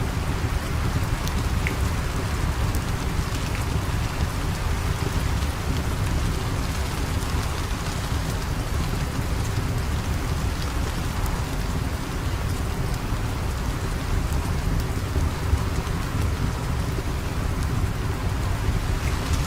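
Steady rain with a constant low rumble underneath and scattered faint clicks of drops.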